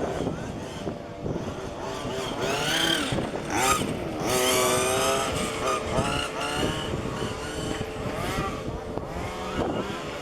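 Several 1:5-scale petrol RC cars with small two-stroke engines racing, their engines revving up and down and overlapping as they accelerate and pass.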